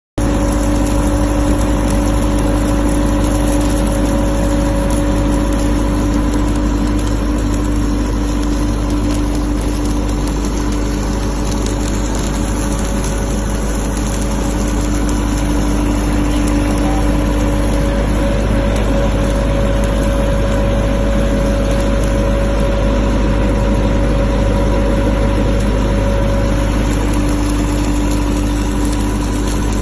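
Engine-driven welding generator running steadily with a constant engine hum. Its strongest tone drops out for several seconds past the middle and then comes back.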